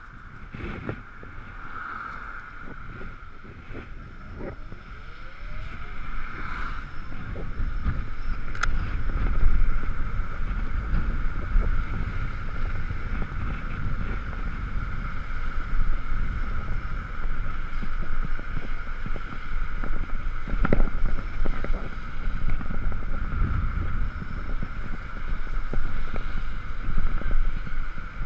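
Wind buffeting the microphone and road noise from an Ekoway ML5000 electric scooter on the move in the rain. The rumble grows louder about five seconds in as the scooter picks up speed, with a steady high whine underneath.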